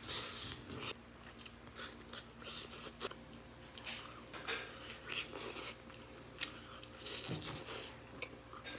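Close-up eating sounds of a man biting and chewing sauce-covered chicken: irregular bites and chews with a few sharp clicks.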